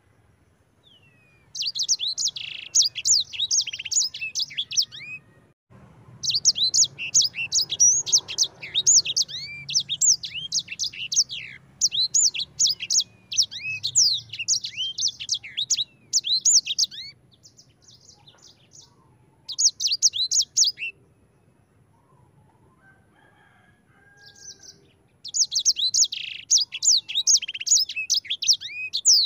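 A sanger songbird singing long, rapid rolling twitters of quick high chirps, in four bouts separated by short pauses, the longest about eleven seconds.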